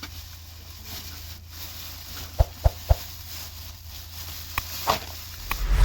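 Three sharp knocks in quick succession a little over two seconds in, then a couple of lighter clicks, over a steady low hum and hiss.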